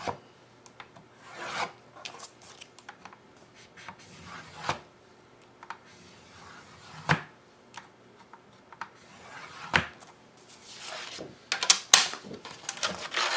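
Cardstock being scored with a scoring tool on a scoring board: a series of short scraping strokes along the paper, mixed with sharp taps and clicks as the sheet and tool are handled, the loudest cluster near the end.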